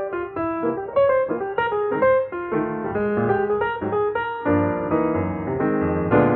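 Piano music: a melody of single notes over chords, thickening into fuller, lower chords about four and a half seconds in.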